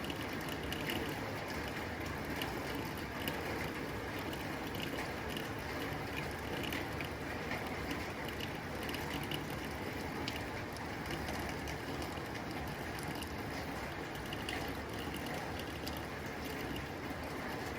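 Rain falling on a tin roof: a steady hiss of rain with dense, irregular ticks of drops striking the metal.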